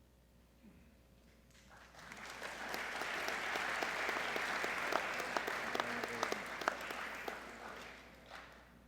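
Audience applauding in a gymnasium: the clapping swells up about two seconds in, holds, then dies away near the end.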